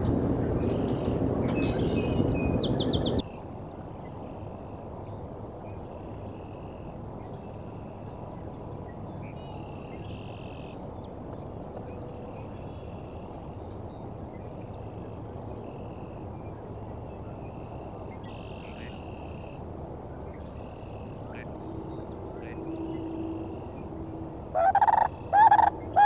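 Wind buffeting the microphone, which cuts off sharply about three seconds in. Then waterbirds call over a steady quiet background: short high calls scattered throughout, and two loud calls near the end.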